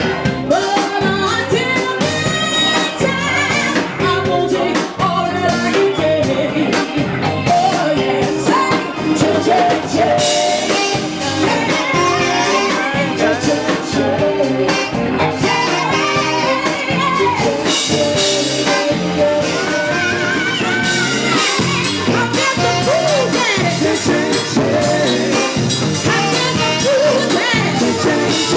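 Live blues band playing, with a singer over drums and guitar and a steady beat.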